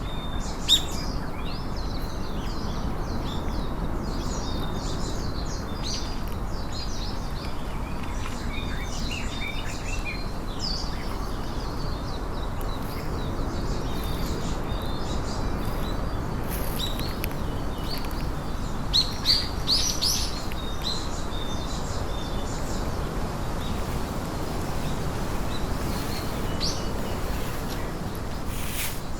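Small songbirds chirping and singing in quick short phrases, a few louder calls about a second in and again around two-thirds of the way through, over a steady even rushing background noise.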